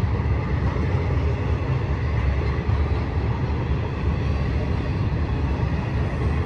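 Freight cars of a BNSF intermodal train rolling past on the main track: a steady low rumble of wheels on rail.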